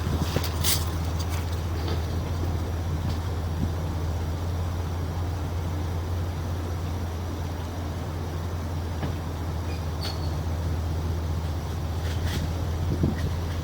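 An engine running steadily at idle, a constant low hum, with a few brief clicks and knocks on top.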